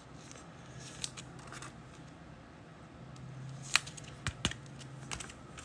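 Trading cards and a foil pack being handled: scattered light clicks and rustles, the sharpest about four seconds in, over a faint steady low hum.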